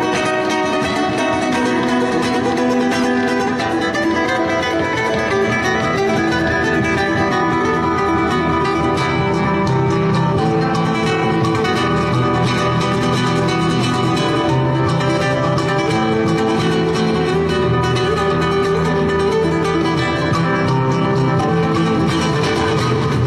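Acoustic guitar playing flamenco-style music: a continuous stream of plucked notes, with stronger bass notes coming in partway through.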